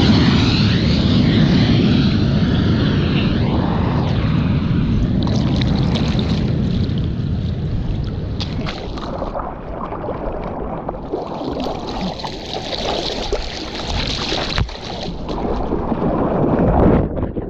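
A passing jet aircraft's engine noise fades away over the first several seconds. After that comes rushing wind and water sloshing against the camera, with a few sudden bumps near the end.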